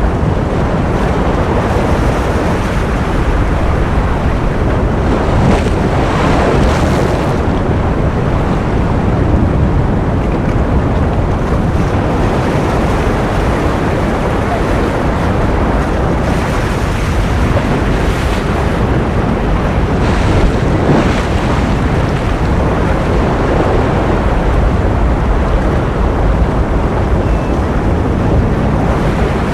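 Steady ocean surf noise: a dense, even wash of water sound, heaviest in the low end, holding a nearly constant loudness with only slight swells.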